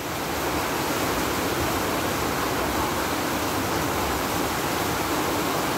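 Heavy thunderstorm downpour: rain pouring down steadily as a dense, even hiss.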